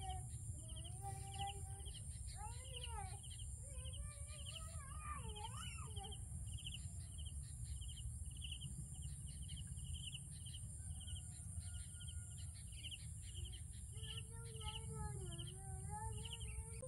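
A bird calling over and over with a short chirp, about two a second, over a steady high-pitched whine. Faint pitched, voice-like calls come and go early on and again near the end.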